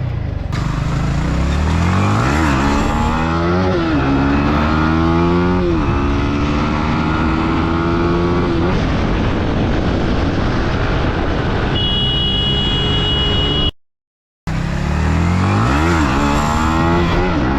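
KTM RC 200 single-cylinder engine with an Akrapovic exhaust, rising and falling in pitch several times as the bike is ridden through the gears, with road and wind noise. A brief high steady tone sounds shortly before the audio drops out for about half a second near the end.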